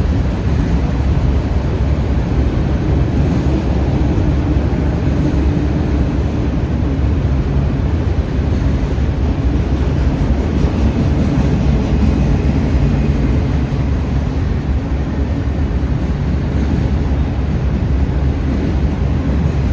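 CSX freight train passing: a loud, steady low rumble of the train rolling by.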